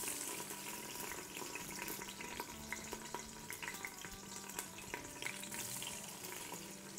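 Soaked, squeezed-out soya chunks sizzling and crackling as they are dropped into hot oil with whole spices, a low steady hiss dotted with many small irregular pops.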